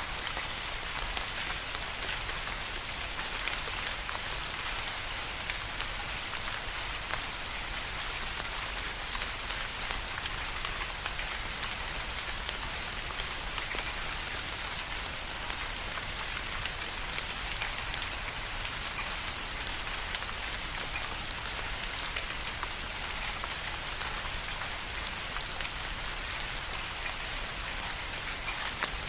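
Steady rain falling on a surface, a continuous hiss with many individual drops pattering through it.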